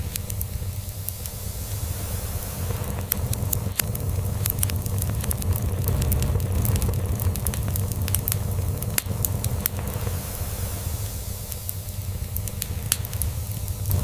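Log fire crackling, with scattered sharp pops and a hiss, over a low, continuous cat purr.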